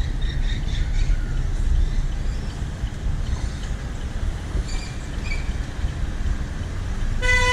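Steady low rumble of a car driving through town traffic, with a few faint high chirps. Near the end a vehicle horn starts to sound, one steady tone.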